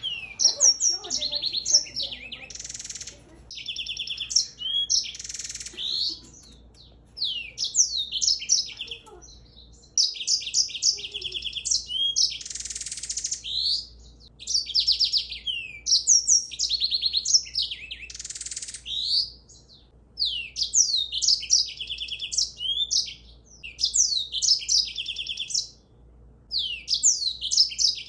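A songbird singing a long, varied song: bursts of quick high chirps and trills with short pauses between them, and now and then a harsh buzzy note.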